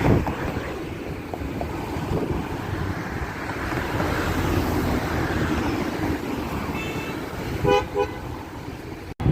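Road traffic running steadily, with a car horn giving two short toots near the end.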